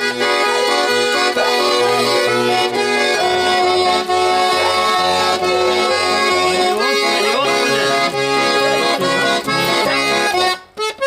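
Garmon (Russian accordion) playing the song's closing instrumental melody over pulsing bass chords, breaking off about ten and a half seconds in.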